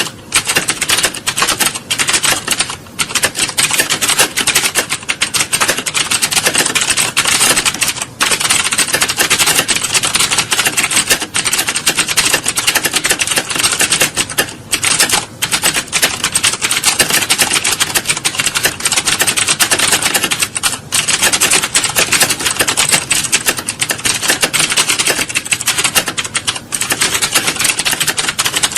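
Computer keyboards being typed on fast and continuously, as in an exam hall: a dense clatter of key clicks with a few brief lulls.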